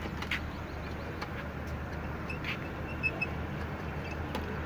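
A steady low hum, with a few light taps and several short high chirps in the second half.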